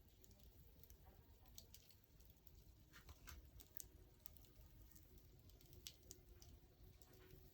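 Faint crackling of a wood fire: scattered small pops and snaps at an uneven pace over a low, soft rumble.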